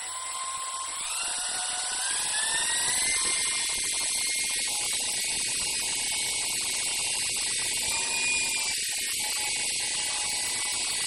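Walkera RC helicopter's motor and rotor spooling up, the whine rising in pitch over the first few seconds, then holding at a steady high whine with small wavers in pitch.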